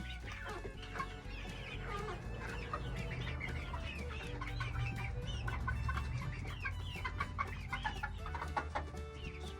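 A flock of hens clucking and calling, many short overlapping calls one after another, over a low steady hum.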